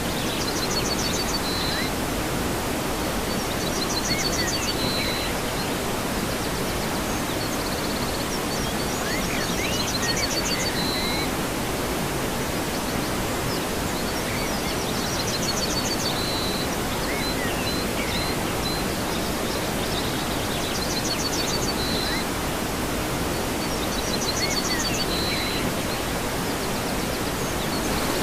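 Waterfall's steady rushing water, with a bird singing short high phrases every few seconds over it.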